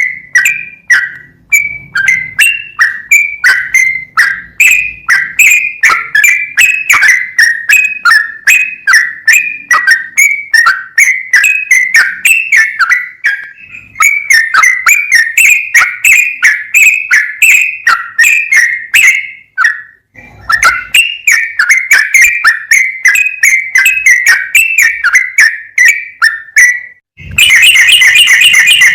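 Yellow-vented bulbul song: a fast, chattering run of short whistled notes, about three a second, broken by two brief pauses. Near the end a louder, shrill, buzzing burst cuts in.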